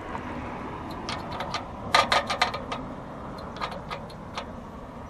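Irregular ticking and clicking from a road bicycle while riding, with a quick run of louder clicks about two seconds in, over steady road and wind noise.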